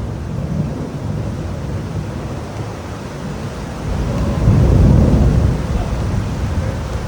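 Heavy pouring rain, a steady rushing noise, with a deep rumble that swells about four seconds in and fades a second or so later.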